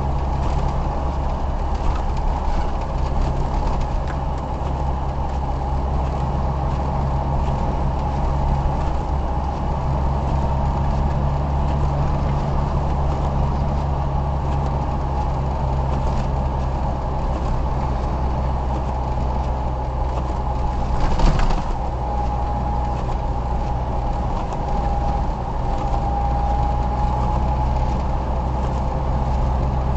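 Steady drone of a car's engine and road noise heard from inside the cabin while driving, with one short thump about two-thirds of the way through.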